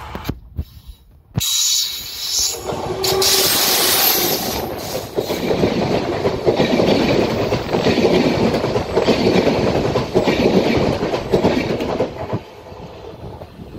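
Electric passenger train passing close by at speed: a loud rush of coaches and wheels with a rapid clatter over the rails. It starts suddenly about a second and a half in and falls away near the end.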